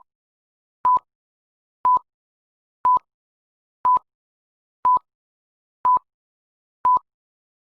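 Short electronic beeps at one steady pitch, repeating about once a second, eight in all, with complete silence between them.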